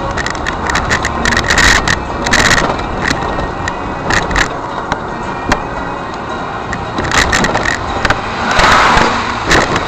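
Car on the move, recorded by a dashcam inside the cabin: steady road and engine noise with frequent sharp clicks and knocks.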